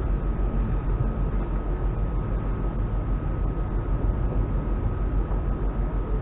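Steady running noise inside a moving train carriage: a low rumble from the wheels on the rails, with a faint steady high whine running through it.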